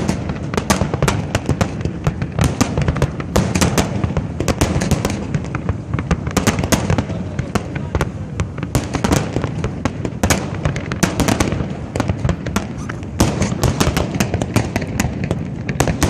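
Fireworks display going off continuously: a dense stream of sharp cracks and bangs, many a second.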